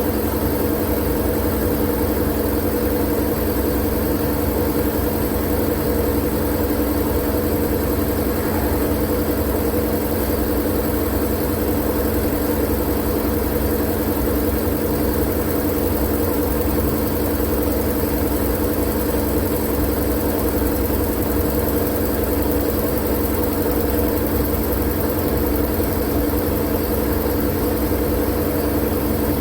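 Steady, unchanging machine drone: a low hum with a few fixed tones under an even hiss, used as white noise.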